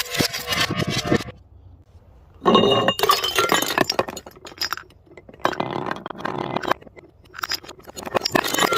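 Glass bottles shattering and clinking in about four separate bouts of crunching, tinkling glass, each a second or two long with short pauses between.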